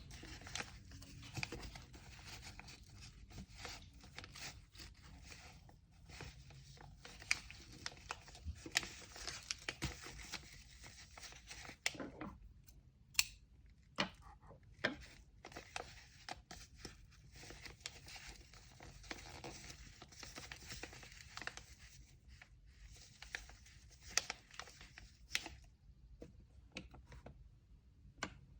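Paper and tape being handled in packing: rustling and crinkling, with tearing and scattered sharp clicks and taps. It drops off briefly about halfway through and dies down near the end.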